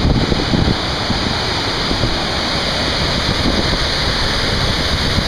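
Muddy Creek Falls, a 53-foot waterfall, crashing steadily down its rocks in a loud, even rush, with a few low bumps near the start.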